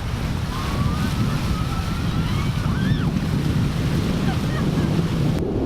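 Wind buffeting the microphone over the steady wash of ocean surf, with faint distant calls rising and falling in pitch about a second in.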